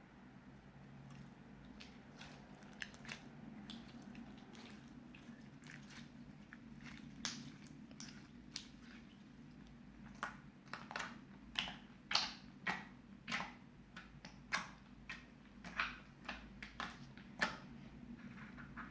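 Clear slime with small crystals mixed in being squished and worked by hand: sticky pops and crackles, sparse at first, then coming more often and louder from about halfway, roughly one or two a second.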